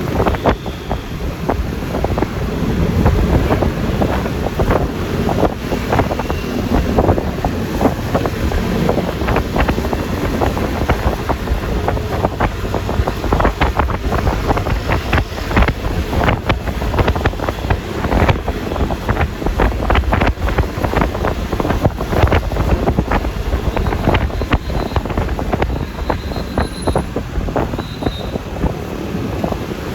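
Wind buffeting the phone microphone on a moving Yamaha Lexi LX 155 scooter, gusting unevenly, over the scooter's engine and tyre noise.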